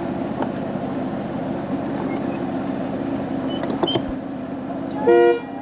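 A 1/8-scale ride-on miniature train running with a steady drone and a few light clicks. Near the end comes a short, loud toot from the locomotive.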